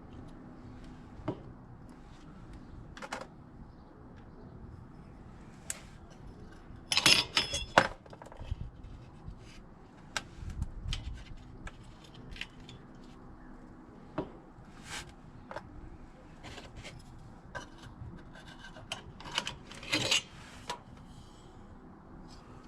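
Metal mounting brackets being handled and worked: irregular metallic clinks, knocks and rubbing, with a louder burst of clattering about seven seconds in and another sharp clink near the end.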